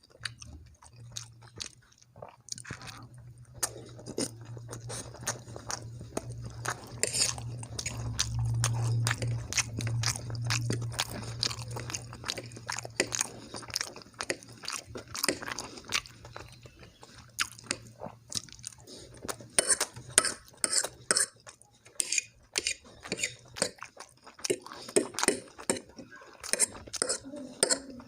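A person chewing food close to the microphone: wet mouth clicks and smacks, irregular and repeated throughout. A steady low hum runs under most of it and stops a few seconds before the end.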